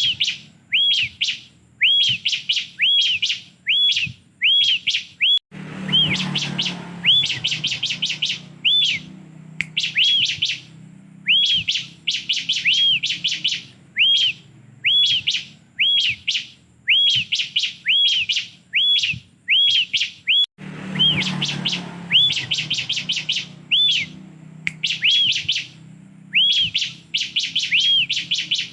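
Ciblek (bar-winged prinia) singing continuously: short arched whistled notes about twice a second, alternating with fast dry ticking rattles. A low background hum comes in abruptly twice.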